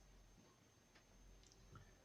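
Near silence: room tone with a faint low hum and a couple of tiny clicks, a pause between sentences of speech.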